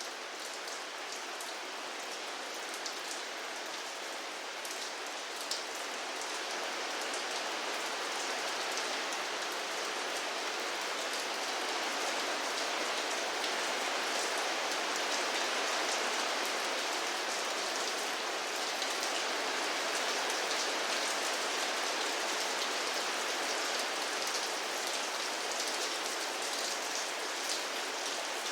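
Steady rain falling and pattering on a surface, with many fine drop ticks and no other sound; it swells a little after a few seconds.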